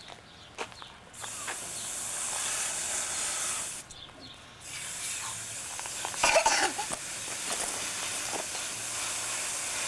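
A steady hiss that starts about a second in, cuts out for under a second around four seconds in and then runs on, with a few faint knocks.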